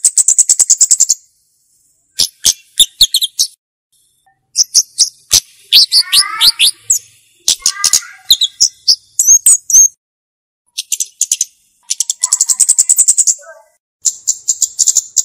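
Flowerpecker (cabe-cabean) calling. It gives repeated runs of rapid, very high, sharp ticking notes, each run about a second long with short pauses between. A few lower, descending chirps come in the middle.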